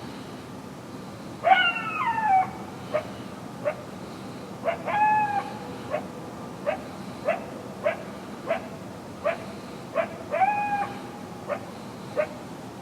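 Coyotes barking, close by: short sharp barks repeating every half second to a second, broken three times by longer yelps that fall in pitch. A steady hiss of background noise lies underneath.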